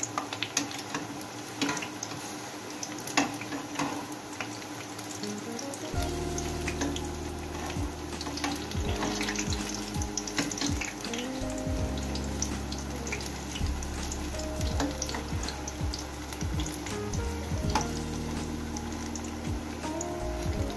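Chicken pakoras deep-frying in hot oil, a steady sizzle with scattered clicks and pops as metal tongs turn them in the pan. Soft background music comes in about six seconds in.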